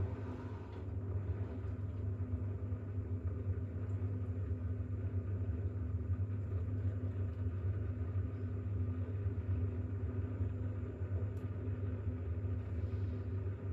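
Bosch WAX32GH1 front-loading washing machine drum spinning with a load of towels, a steady low hum from the motor and drum. This is the spin after the first rinse, with the load too unbalanced for the machine to reach full speed.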